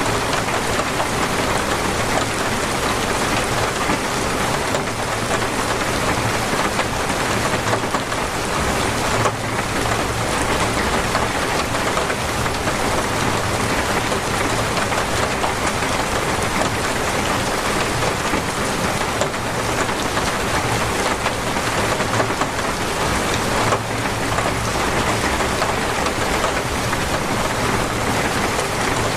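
Torrential rain falling steadily, a dense, even hiss of drops.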